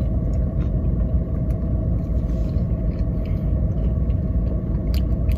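Steady low rumble with a constant hum of a car idling, heard from inside the cabin, with a few faint clicks of chewing a sub sandwich.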